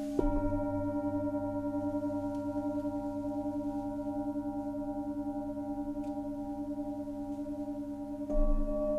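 Singing bowls struck, once near the start and once near the end, each ringing on at length as several steady tones with a slow, wavering pulse.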